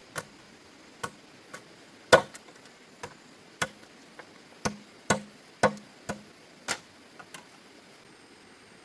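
A series of about a dozen sharp knocks, irregularly spaced at up to two a second, some with a brief low ring, stopping about a second before the end.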